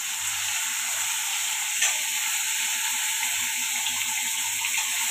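Sliced bitter gourd sizzling steadily as it fries in hot ghee in a wok, with one light tap about two seconds in.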